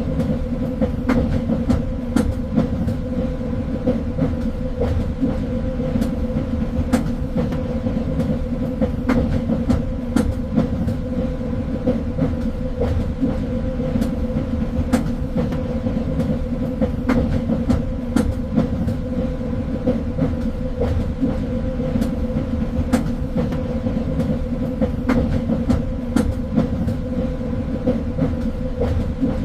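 Train running along the track with a steady low rumble and hum, broken by irregular clicks and knocks from the wheels on the rails.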